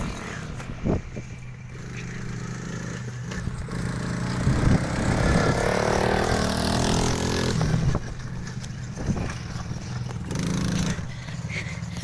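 Small off-road vehicle engine running as it is ridden. It revs harder and louder from about four seconds in, then eases off near eight seconds, with a few sharp knocks along the way.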